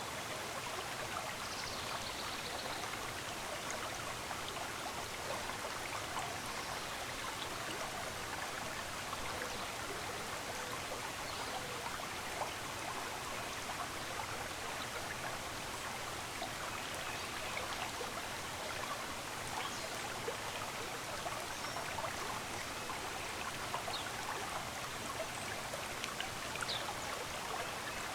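Shallow stream running steadily, a continuous rush of water with many small splashes and trickles. A few faint, brief high bird chirps come through over it.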